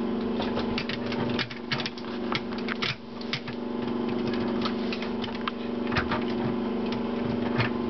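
Plastic Lego pieces clicking and rattling as a model is handled and a top section is pressed into place, over a steady hum.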